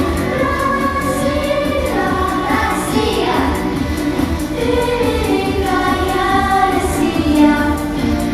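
A choir of voices singing over an accompaniment with a steady beat.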